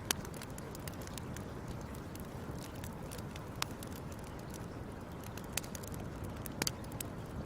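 Wood fire crackling: a steady low rumble of burning with scattered sharp pops, a loud one right at the start and a quick double pop near the end.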